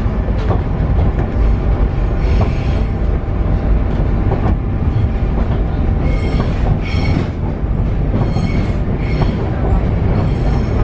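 Paris Metro Line 7bis MF 88 train running, a loud steady rumble of the car and its steel wheels on the track. High wheel squeals break in briefly about two seconds in and several times in the second half.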